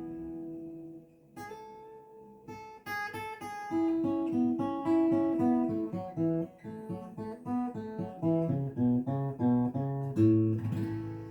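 Plucked string instrument playing: a chord rings and fades, then after a brief pause comes a run of single picked notes, with a chord struck near the end that rings on.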